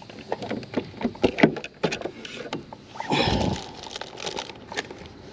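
Scattered light knocks and clicks of people and gear moving in a jon boat, with one louder thump about three seconds in.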